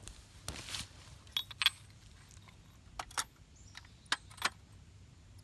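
Small metal parts clinking and rattling while being handled, in three short clusters about a second or more apart.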